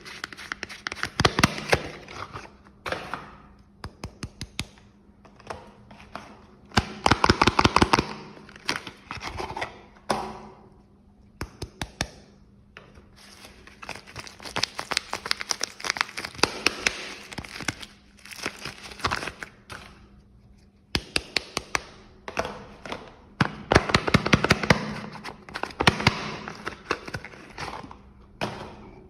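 Soap packaging being unwrapped by hand: wrappers crinkle and rustle in several bursts, dotted with clusters of sharp taps and crackles, with short quieter pauses in between.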